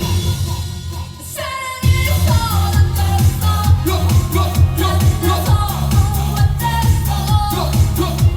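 Live Korean dance-pop song with a woman singing over a heavy beat. The bass and drums drop out for about a second and a half near the start, then the full band comes back in.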